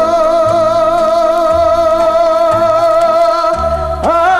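Korean trot song with a male voice holding one long sung note with vibrato over a steady bass beat, a new phrase sliding in near the end.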